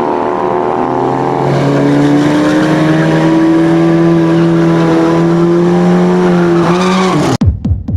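Sport-bike engine held at steady high revs, its pitch stepping up slightly about a second and a half in, dipping near the end, then cutting off abruptly.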